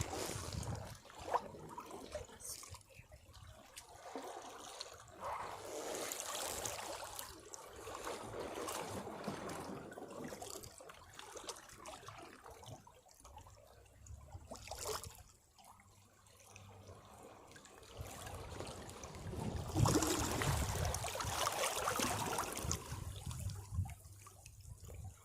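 Caribbean sea waves washing against rocks, the water swelling and draining back in uneven surges with brief splashes. The biggest surge comes about two thirds of the way in.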